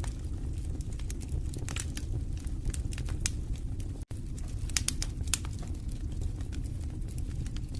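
Wood fire burning in a fireplace, crackling and popping with frequent irregular snaps over a steady low rumble of the flames. The sound drops out for a split second about four seconds in.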